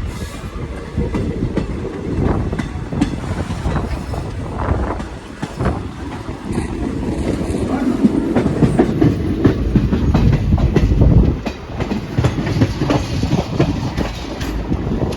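Train wheels clattering over rail joints and points, with a steady low rumble, as a train pulls out of a station. The clicks come irregularly throughout, with a louder stretch about halfway through.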